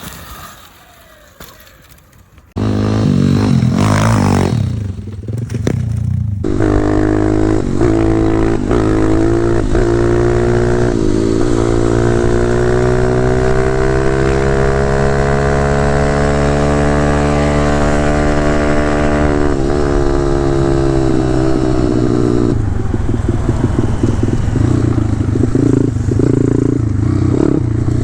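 A 190 cc pit bike engine comes in suddenly about two and a half seconds in and revs up and down. It then holds a long pull whose pitch slowly rises and falls as the bike is ridden, with some rattle.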